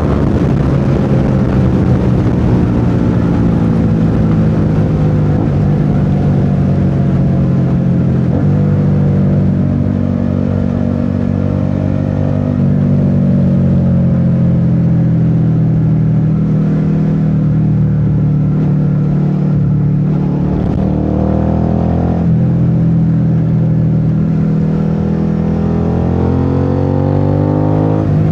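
Suzuki SV650's V-twin engine running under way, its pitch easing down and rising again a few times as the throttle is rolled off and on, climbing near the end.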